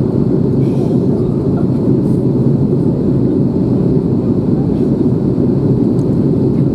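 Airbus A321 airliner in flight: a steady low rumble of its engines and rushing air.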